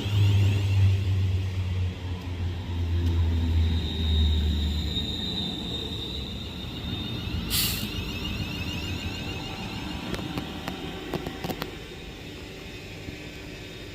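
A train moving through the station: a heavy low rumble that fades over the first five seconds, with a high steady whine, then one short sharp hiss about seven and a half seconds in as the sound dies away.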